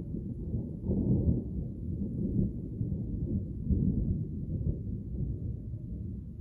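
Thunder rumbling low and continuously from an approaching storm, swelling about a second in and again near the four-second mark.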